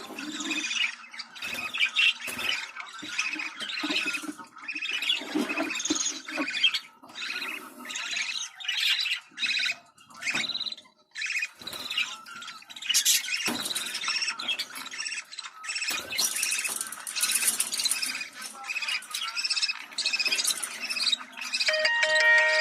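Budgerigars chattering: a dense, continuous mix of warbling, chirps and squawks. Near the end, steady chime-like musical tones come in.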